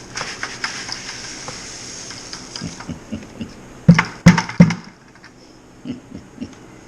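Milled grain pouring from a bucket into a mash tun of hot water, a steady hiss for about three seconds. About four seconds in come three sharp knocks in quick succession, then a few lighter taps.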